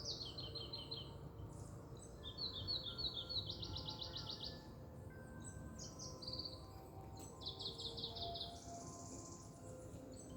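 Songbirds singing in a forest: several high phrases of quick repeated notes, one about every two seconds, over faint sustained background music.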